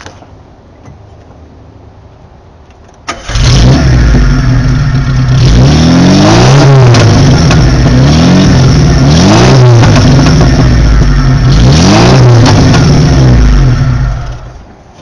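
Car engine, loud and suddenly close about three seconds in, revved three times with the pitch rising and falling each time, with sharp pops as the revs wind down. The owner takes the popping and rough running for a cylinder not firing, with the excess fuel being burnt off.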